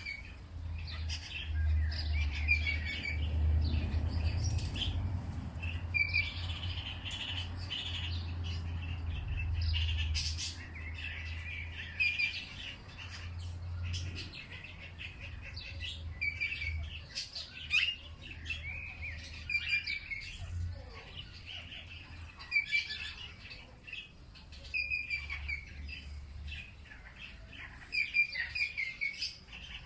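Several songbirds chirping and calling in quick, overlapping phrases throughout, over a low steady rumble that fades out near the end.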